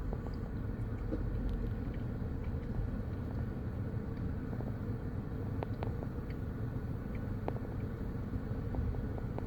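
Steady low outdoor rumble with a few faint, sharp clicks scattered through it.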